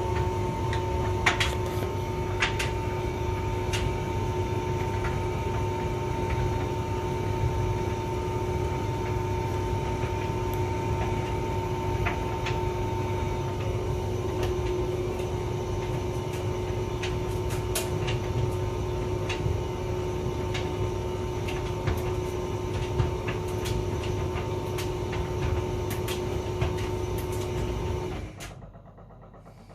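Hotpoint vented tumble dryer running: a steady motor-and-drum hum with two held tones and scattered light knocks. Near the end it suddenly goes almost quiet as the drum stops.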